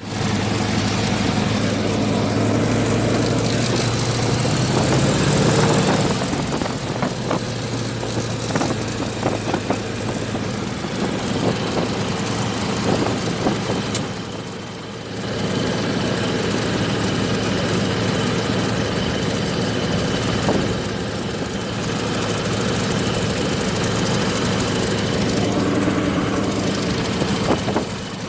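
PZL-104 Wilga 35A's nine-cylinder radial engine running steadily, heard from the cockpit. Its note rises a little about five seconds in and briefly drops in level about halfway through.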